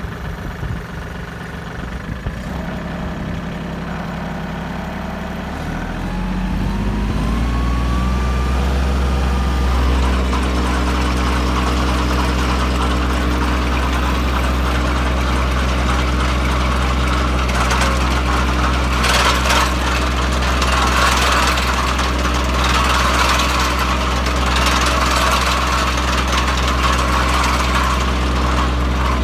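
Tractor engine running, revving up about six seconds in and then holding a steady higher speed as its PTO spins a 9-inch post hole digger auger. From a little past halfway, a harsher grinding noise joins as the auger digs into the ground.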